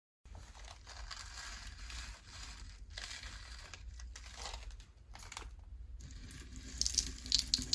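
Slime being squished and stretched by hand, crackling and crinkling throughout, with sharper, louder pops and clicks near the end.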